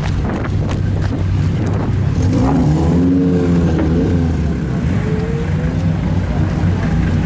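Sports-car engines running with a steady low drone, one of them revving up and back down in pitch about halfway through.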